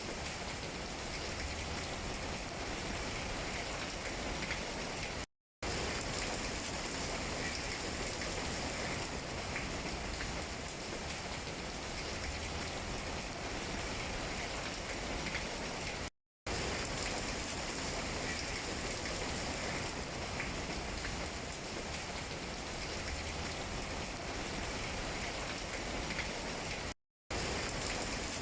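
Steady rain pattering on tree leaves, an even hiss with fine scattered drop ticks. It cuts out to silence for a moment three times, about every eleven seconds.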